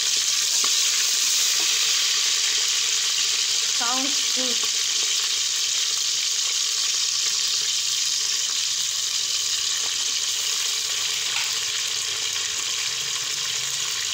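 A masala of onion, garlic-ginger paste and tomato sizzling in hot oil in a pan, a steady frying hiss that eases slightly toward the end.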